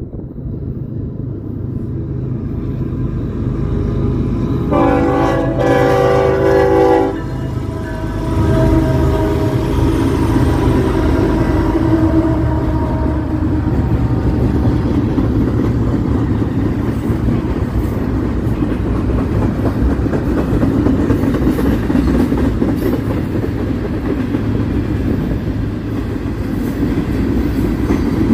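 Train passing with a steady low rumble of locomotive and wheels. About five seconds in, the locomotive's air horn sounds a loud blast of about two seconds, then sounds again more softly for a few seconds before the rumble carries on alone.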